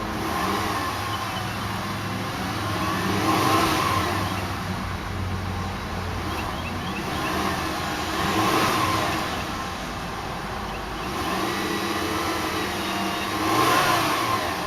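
2005 Volkswagen Jetta's 2.5-litre inline five-cylinder engine running and blipped three times, each rev rising and falling back to idle.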